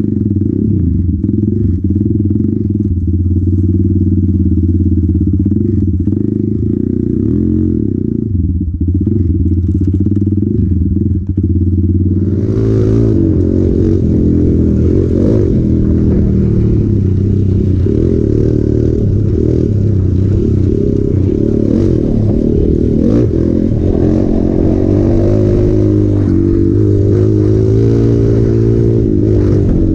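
Hero Impulse single-cylinder motorcycle engine running under way. About twelve seconds in, the engine note shifts and a hissing noise joins in over it.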